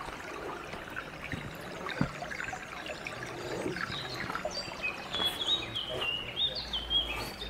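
A songbird singing a run of short high whistled notes that step up and down, starting about halfway through, over the trickle of a small forest stream. Footsteps on the dirt path knock now and then.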